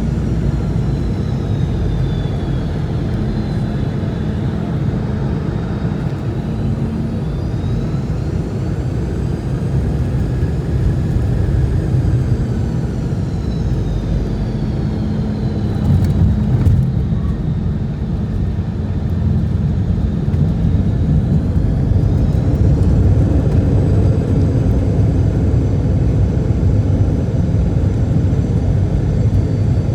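Cabin noise aboard a Boeing 717: a steady low rumble under the high whine of its rear-mounted Rolls-Royce BR715 turbofans, which glides down and back up as thrust changes. About 16 s in there is a short jolt with a louder rumble, and from about 21 s the engine whine climbs as power comes up.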